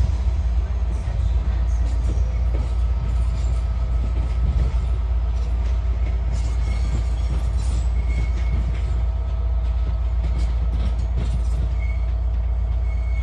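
West Midlands Railway Class 196 diesel multiple unit pulling away and running off through the station throat, with a steady low engine and rolling rumble. Brief high wheel squeals come in from about two-thirds of the way through, as it takes the pointwork.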